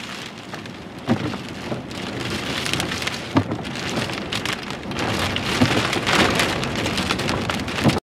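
Heavy rain from a tornadic supercell pelting down, with scattered sharp hits close by; it grows louder about five seconds in and cuts off abruptly just before the end.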